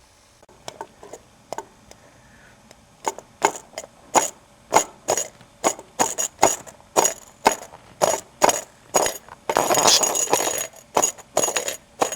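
A budgie playing with small toy balls: a run of light, irregular taps and knocks, about two or three a second, starting a few seconds in, with a short scraping rustle about ten seconds in.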